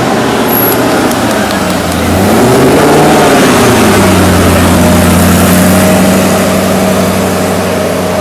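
Koenigsegg CCX's twin-supercharged V8 running at low speed as the car drives by, the revs rising and falling once about two to three seconds in, then holding a steady drone.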